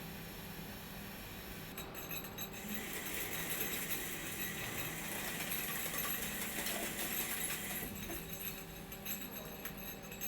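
Takisawa TCN-2100 CNC lathe at work: a steady hiss from about two seconds in until about eight seconds, over a low machine hum, then light metallic clinking and ticking.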